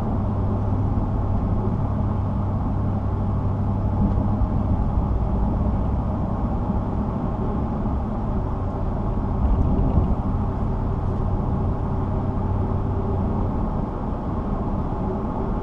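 Road noise inside a moving car: a steady low rumble of tyres and engine, with a hum that drops away near the end.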